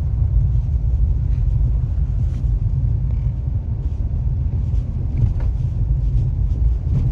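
Steady low rumble of a two-wheel-drive car driving on a snowy highway: engine and tyre noise heard inside the car.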